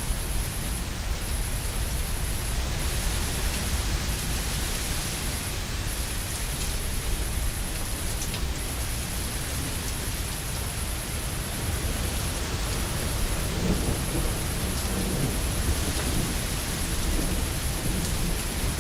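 Steady heavy rain with low rolling thunder underneath, the rumble swelling a little in the second half.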